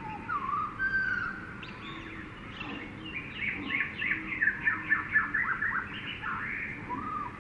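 Jungle birdsong: several birds calling, with whistled gliding notes and, a few seconds in, a fast run of short falling chirps.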